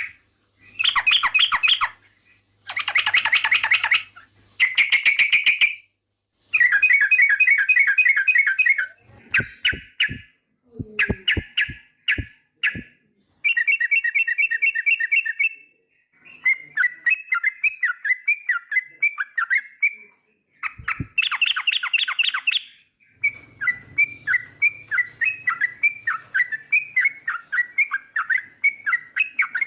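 Yellow-vented bulbul (trucukan) singing: bursts of fast, bubbly chattering phrases separated by short pauses, with a few sharp clicks about ten seconds in, and a long run of rapid repeated notes over the last several seconds.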